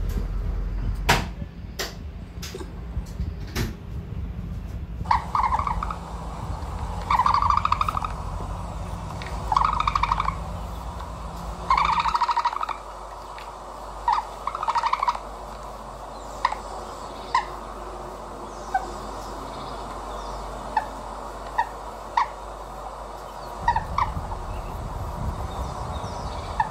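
Birds calling: a few loud calls about a second long, then shorter chirps every second or two.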